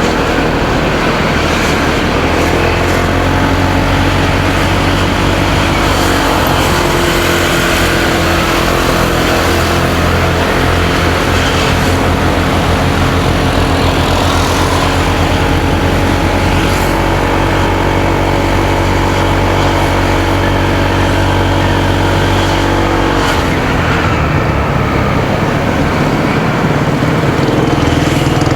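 Motorcycle engine running at a steady cruising speed under road and wind noise. Its engine note drops away about three-quarters of the way through.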